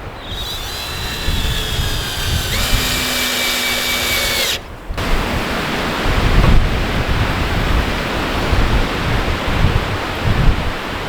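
Power drill running for about four seconds in two stretches, its whine sagging slightly and then holding steady as it drives into wood, then stopping abruptly. After that, wind buffets the microphone.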